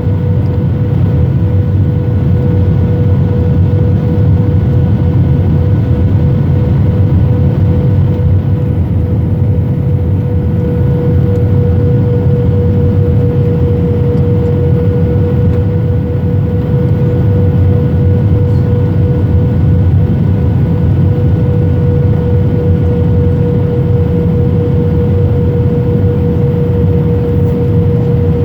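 Airbus A320 cabin noise in flight: a steady, loud rumble of engines and airflow with an even hum on one pitch. It does not change noticeably throughout.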